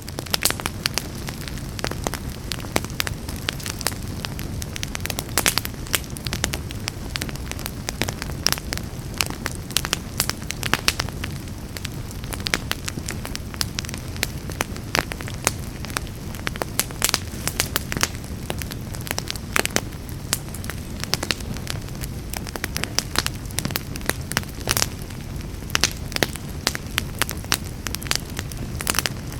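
Wood fire burning in a fireplace: a steady low rumble of flames with many irregular crackles and pops.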